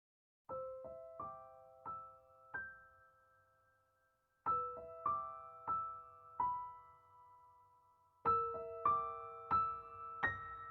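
Background music: a slow solo piano melody in short phrases of a few notes each, every note struck and left to ring and fade. It starts about half a second in, out of silence.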